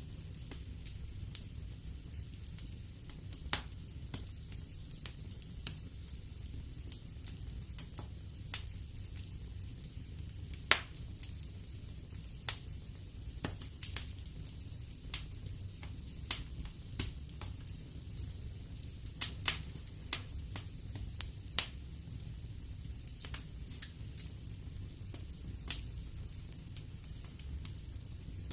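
Wood fire burning in a fireplace, crackling with irregular sharp pops over a steady low rumble of the flames, one pop louder than the rest about eleven seconds in.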